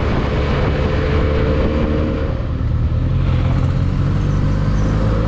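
Isuzu D-Max pickup truck under way, its engine running steadily with a tone that slowly rises in pitch, over continuous road and wind noise.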